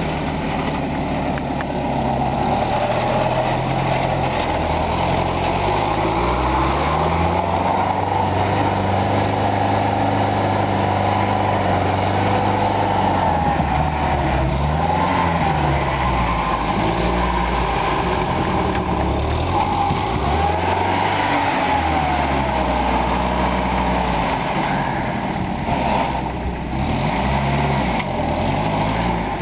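UAZ off-road vehicle driving, its engine running steadily and its pitch rising and falling again and again as the engine speed changes. A fainter, higher whine rises and falls along with it.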